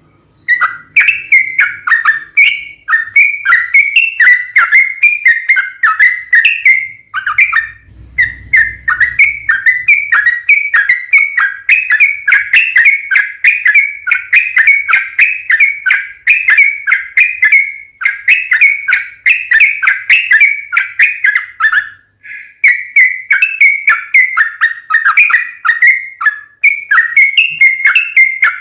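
Yellow-vented bulbul (trucukan) singing a long, rapid, chattering song of bubbly whistled notes, broken only by a few brief pauses.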